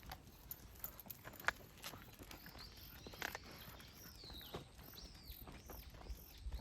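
Footsteps with scattered sharp clicks, and in the second half a run of short, high, falling chirps from an animal, about two a second.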